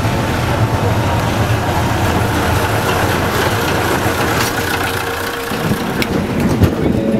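A vehicle running with a steady low rumble under a haze of noise, with a few sharp clicks near the end.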